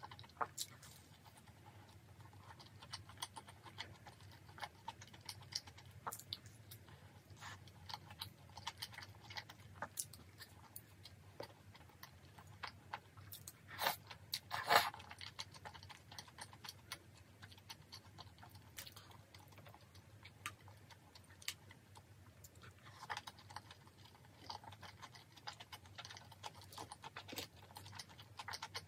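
Faint close-up eating sounds: chewing and small wet mouth clicks of someone eating chewy tteokbokki rice cakes and fried snacks, with light chopstick taps, over a low steady hum. A louder run of mouth sounds comes about fourteen seconds in, as a mouthful of rice cakes is taken.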